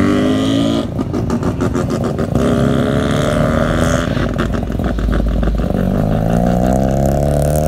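A car engine revving several times as the car drives slowly by, its pitch climbing with each rev, with choppy, uneven running between the revs.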